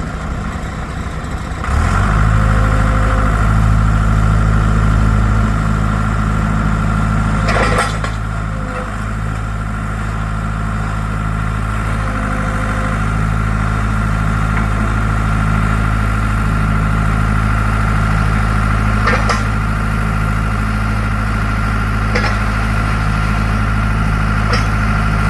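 Deutz diesel engine of a Ditch Witch 6510A trencher running steadily. About two seconds in it gets louder and a steady high whine comes in, with a few brief knocks later.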